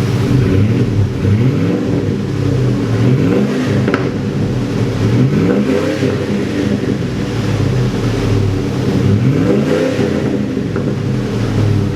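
2005 Ford F-150 exhaust through a Black Widow Venom 250 muffler and dual stainless tailpipes, the engine revved repeatedly, its pitch rising and falling back about five times over a steady running note.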